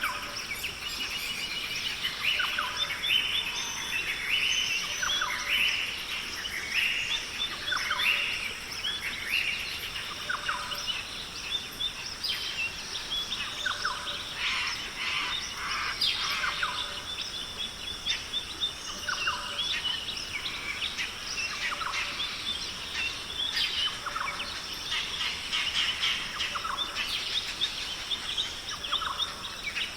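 Rainforest bird chorus: many birds calling at once in short, overlapping chirps and whistles, over a steady high-pitched hiss.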